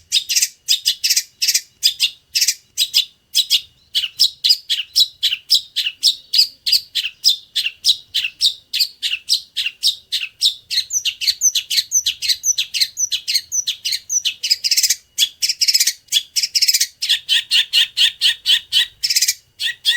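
Long-tailed shrike singing a nonstop string of sharp, sparrow-like chirps, mimicking a Eurasian tree sparrow, about four notes a second. There are denser rattling bursts around the three-quarter mark and just before the end, and lower notes join in near the end.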